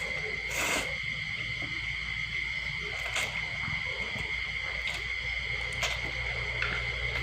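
Night insects, likely crickets, keeping up a steady shrill chorus, with a few soft clicks and rustles now and then.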